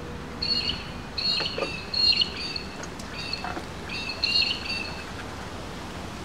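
Birds chirping in three runs of high, steady-pitched calls, the loudest about two seconds in.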